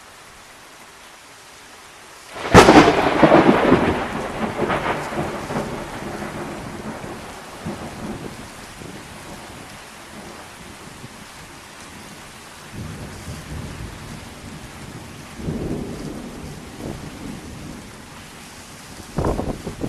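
Thunder during a rainstorm: a sudden sharp thunderclap about two and a half seconds in, rolling and fading over several seconds, with smaller rumbles later and another near the end. Steady rain hisses underneath.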